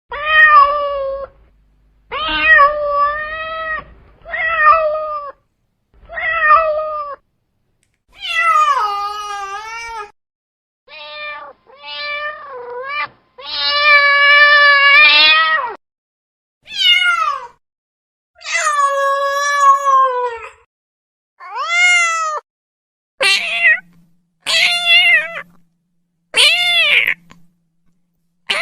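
Domestic cat meowing over and over: about fourteen separate meows, some short and some long and drawn out, many sliding down or rising and falling in pitch, with short silences between them.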